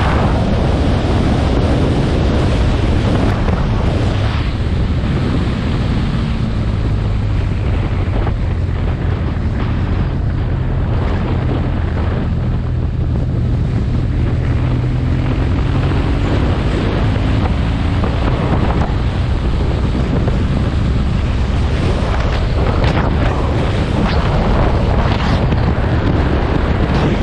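Wind buffeting the microphone of a moving motorcycle, loud and steady, with the motorcycle's engine running underneath and its pitch gliding a little now and then as speed changes.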